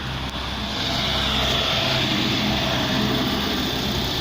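2014 Holden Captiva 5's 2.4-litre LE9 Ecotec four-cylinder petrol engine idling steadily, a little louder from about a second in.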